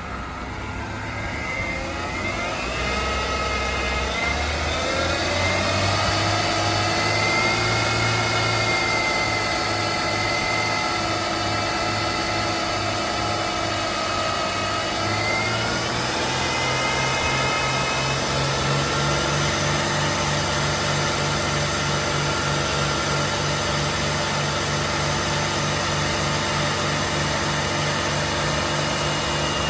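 2006 Mercedes R350's 3.5-litre V6 engine running at idle during a run test. Its pitch and level rise over the first few seconds, and it settles a little lower about halfway through, then holds steady.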